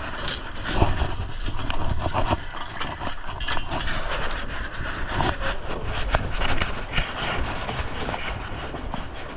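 Wind buffeting the microphone aboard a sailing dinghy: a heavy, uneven rumble with a hiss over it and scattered knocks.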